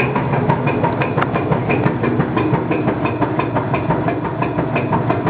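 A new Whirlpool clothes washer (Quiet Wash Noise Reduction System model) running loudly, with a steady low hum and a rapid, even clicking. Whirlpool customer service considers this noise normal.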